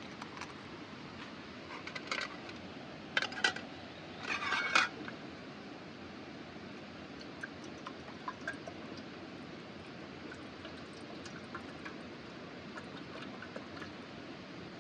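Small hard objects being handled: a few sharp clicks and knocks between about 2 and 5 seconds in, the loudest a short clattering burst near 5 seconds, then faint scattered ticks, over a steady background rush.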